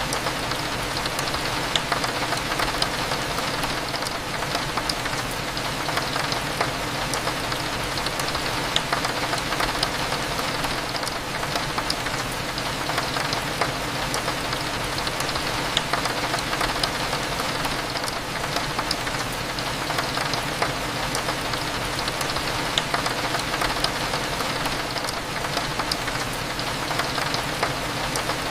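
Steady rain falling on a window: a constant hiss dotted with many small drop ticks, over a low steady hum.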